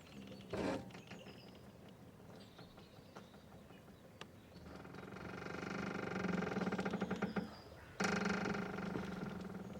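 Boat's mooring rope creaking and squeaking as it strains and stretches with the boat's movement. A long creak swells up and fades in the middle, and a second starts suddenly about eight seconds in.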